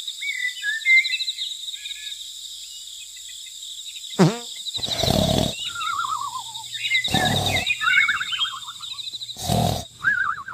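Layered nature sounds: bird-like chirps over a steady high, fast-pulsing insect-like trill, with a falling swoop about four seconds in and three short, loud, noisy bursts about two seconds apart.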